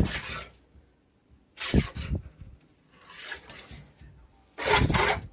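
A cat leaping at a wall and landing: four short bursts of thudding and claws scrabbling and rubbing, the third fainter.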